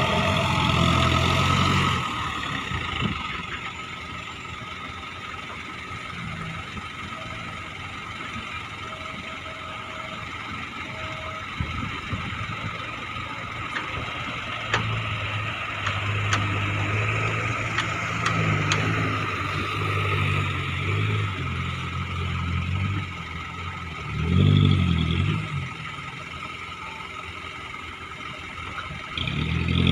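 Diesel engine of a loaded Isuzu dump truck running with a low rumble, rising in bursts of revs, loudest in a short surge about three-quarters of the way through and again at the end.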